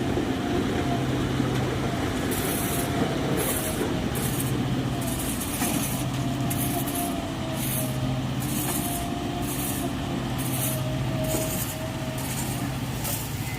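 JCB 3DX backhoe loader's diesel engine running steadily under a wavering whine. From about two seconds in, short bursts of hiss come and go.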